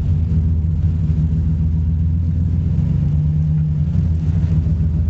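An engine running steadily with a low, deep hum, one tone in it swelling briefly about three seconds in.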